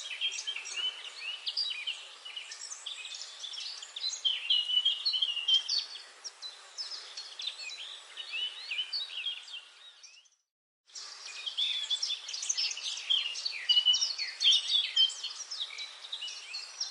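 Forest birdsong: a dense chorus of many birds chirping over one another, with a brief total silence about ten seconds in where the recording cuts out, after which the chorus carries on.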